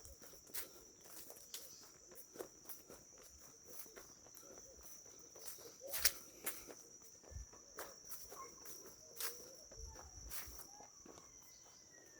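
Faint steady high trill of insects, with irregular footsteps along a path, one louder step or knock about halfway through.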